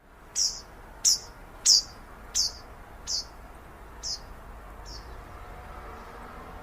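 A bird calling a series of seven sharp, high chirps about 0.7 s apart, the later ones growing fainter, over steady low background noise.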